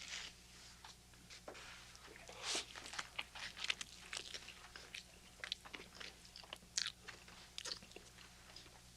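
Close, irregular crunching and crackling, in quick uneven clusters through the whole stretch, over a faint steady room hum.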